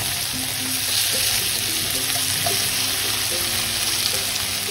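Cubed butternut squash sizzling steadily in oil in a pan, with soft background music underneath.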